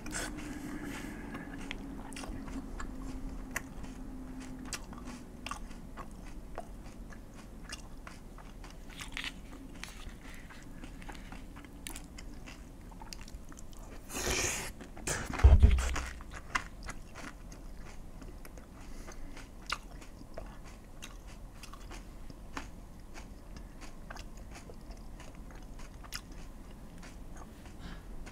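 Close-miked chewing of crunchy food, with many small crisp crunching clicks. About halfway through there is a short rush of noise, then a loud low thump.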